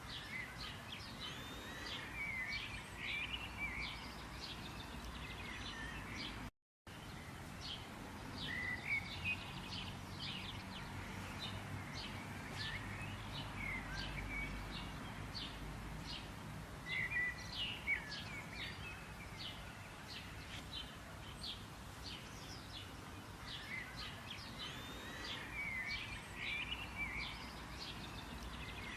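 Several songbirds chirping and trilling in quick, overlapping short notes over a faint steady background hiss. The sound cuts out completely for a moment about six and a half seconds in.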